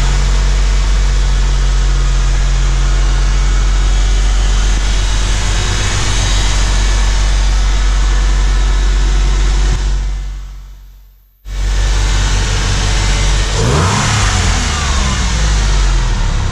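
Porsche 911 flat-six engine running at a fast cold-start idle. The sound fades out about ten seconds in and cuts back in abruptly. The engine is then revved briefly and drops back to idle.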